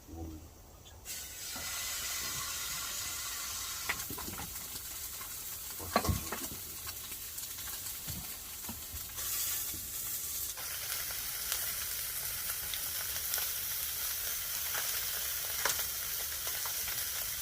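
Beef sizzling as it cooks on a hot surface, a steady hiss that starts about a second in, with a single knock about six seconds in.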